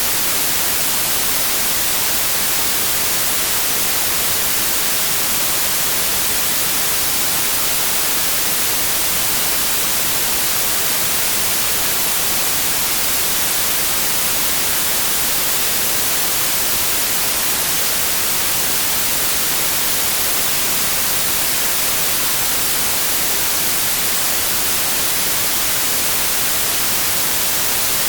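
Steady, synthesized white noise: an even hiss with no changes or events.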